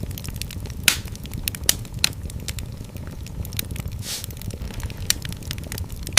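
Fireplace fire crackling and popping over a low, steady rumble of flames, with a few louder pops and a brief hiss about four seconds in.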